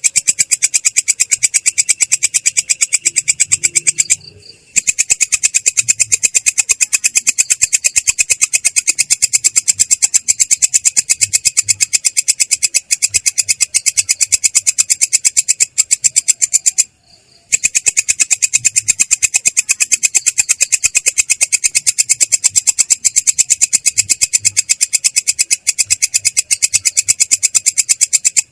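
A belalang kecek katydid calling in a long, unbroken rolling trill of rapid, rough, clear ticks. It breaks off twice, about four seconds in and again past the middle, for about half a second each time.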